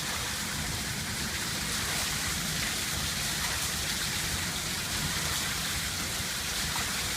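Rain falling steadily: an even hiss of a downpour on the surfaces around.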